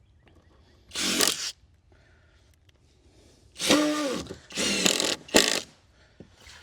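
A power drill driving screws in three short bursts, the middle one whining down in pitch as it slows, followed by a sharp click.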